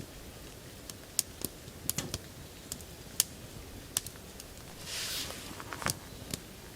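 A dozen or so irregular sharp clicks and taps over a steady low background, with a short hiss about five seconds in.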